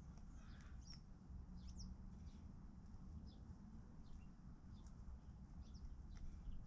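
Small birds chirping faintly: many short, high, falling chirps scattered irregularly over a low steady rumble.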